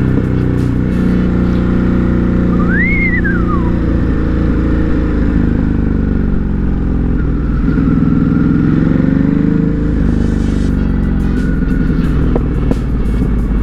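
Ducati Hypermotard 950 RVE's L-twin engine running on the move, its pitch rising and falling as the throttle is opened and eased. A brief high tone rises and falls about three seconds in.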